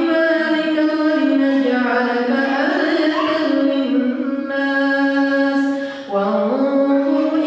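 A man's voice reciting the Quran in Arabic in a slow, melodic chant, holding long notes that glide between pitches, with a brief pause for breath about six seconds in.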